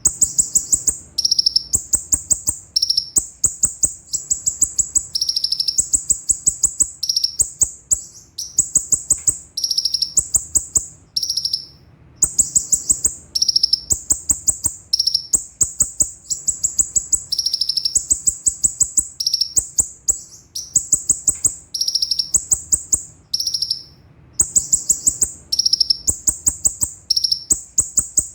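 Kolibri ninja sunbird (konin) singing in fast, high trills. Each burst lasts about a second and is made of rapid repeated notes. The bursts follow one after another with short breaks, stepping between a higher and a slightly lower pitch.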